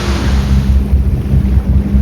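Low steady drone of a Sea Ray 260 Sundeck's 300 hp Mercury engine under way, with a rushing wind-and-water hiss that fades away within the first second.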